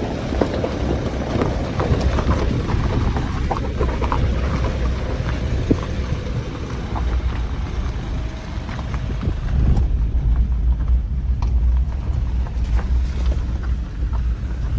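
A vehicle driving over a rough, unpaved mountain road: a steady low rumble with wind buffeting the microphone and scattered short knocks and rattles from the bumps.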